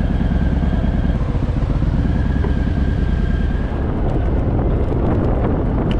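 Harley-Davidson Fat Boy's V-twin engine running with a rapid, uneven low beat. In the last two seconds there are light clicks and rattles over it.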